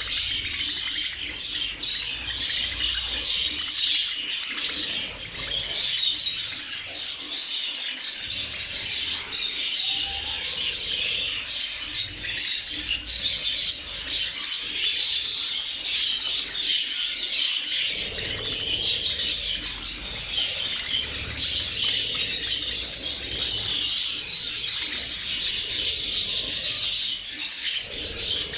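A large flock of budgerigars chattering continuously, many birds chirping and warbling over one another at once.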